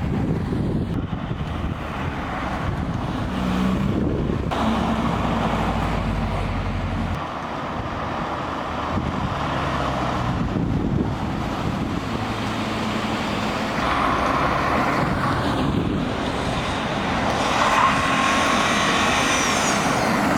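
Cars driving past with their engines running, and a heavy low engine rumble for the first seven seconds or so.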